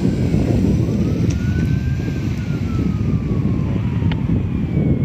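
Fire engine driving under a steady heavy rumble of engine and road noise, with its siren on a slow wail, one rise and fall over about four seconds and starting to rise again near the end. A few short clicks sound over it.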